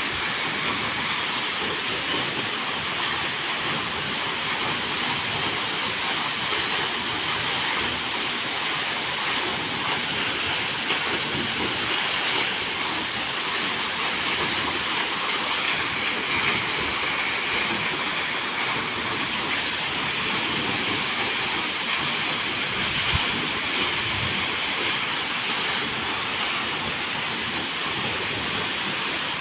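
Waterfall: a steady, even sound of falling water.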